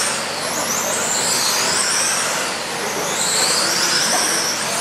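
Several electric RC trucks racing: high-pitched motor whines rise and fall as they speed up and slow down, overlapping over a steady hiss.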